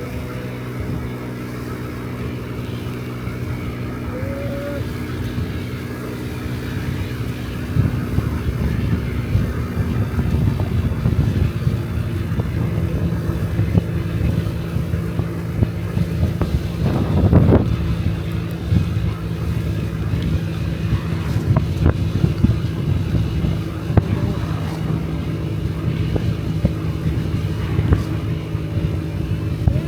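Honda Dio Cesta 50cc four-stroke scooter engine running at a steady cruising speed while riding, with wind buffeting the microphone. The buffeting grows gusty from about a quarter of the way in and peaks briefly around the middle.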